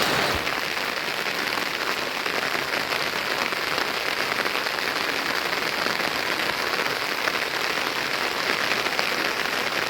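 Steady rain falling on a surface, a dense even patter of many fine drops.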